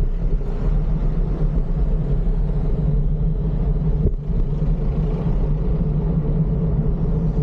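Steady low rumble of road traffic, heard while riding a bicycle along the street.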